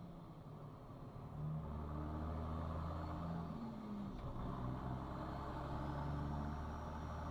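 Car engine and road noise on a dashcam recording: a steady low drone that grows louder about a second and a half in.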